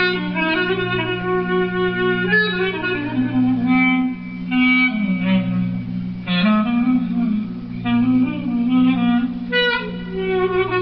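Clarinet playing a lively melody in quick, ornamented runs over a steady low accompaniment.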